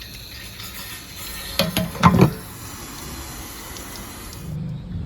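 Hose water spraying from a flushing wand inside an RV water heater tank and pouring out of the anode port, a steady hiss, rinsing out scale debris; a few loud knocks about two seconds in, and the hiss cuts off near the end.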